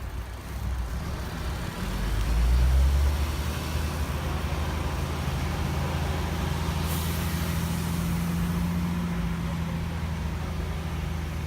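A heavy vehicle's engine runs steadily, swelling louder about two seconds in, with a short hiss about seven seconds in.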